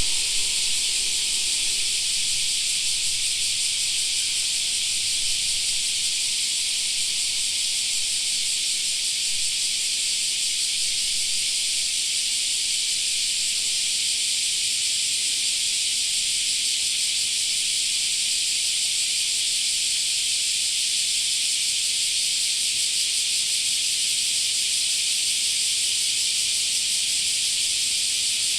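Chorus of cicadas in summer: a steady, dense, high-pitched buzz that does not let up.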